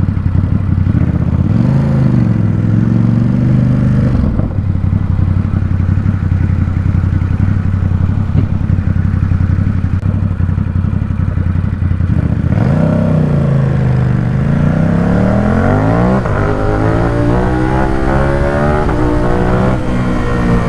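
Ducati Supersport 950 S's 937 cc L-twin engine and exhaust, running at low revs with a brief rev about two seconds in. Past the middle it accelerates hard, the pitch climbing in successive rising sweeps as the bike shifts up through the gears.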